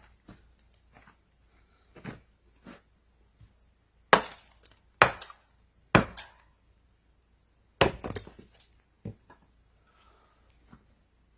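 A series of sharp knocks and clinks from objects being handled or struck. The four loudest come about a second apart a little past the middle, with fainter taps between them.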